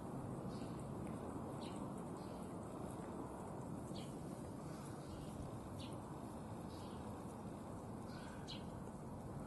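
Small birds chirping: short, separate high chirps every second or so, over a steady low background hiss.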